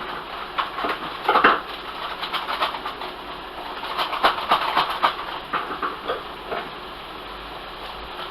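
Clatter of kitchen items being handled: an irregular run of clicks and knocks, loudest about a second and a half in and dying away about six seconds in.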